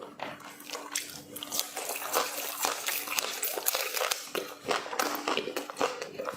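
Close-miked eating sounds: wet chewing and mouth smacking, with many quick irregular clicks and squelches.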